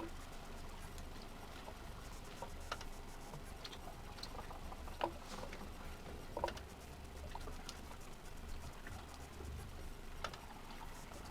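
Scattered light clicks and knocks over a steady low rumble, with two sharper knocks about five and six and a half seconds in.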